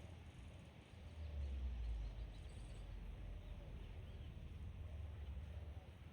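Faint outdoor ambience: a steady low rumble with sporadic faint bird calls and whistles.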